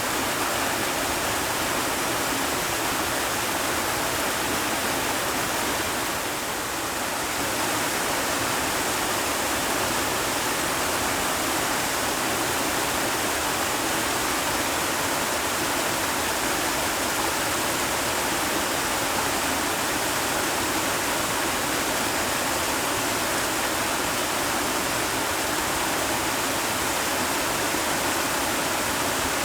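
Heavy steady rain, an even hiss that eases slightly for a moment about six seconds in.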